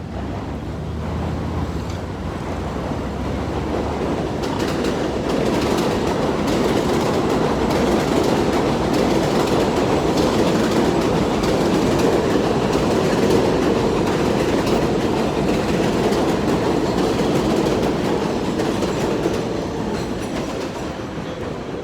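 A train rolling past with its wheels clattering on the rails, growing louder to a peak about halfway through and then fading away.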